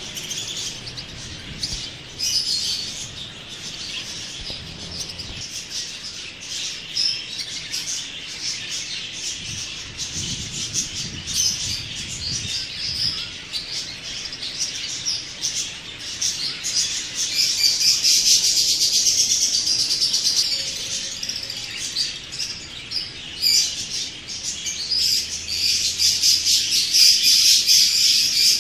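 A flock of small parrots in an aviary, chirping and chattering continuously in a dense, overlapping chorus that swells louder twice in the second half.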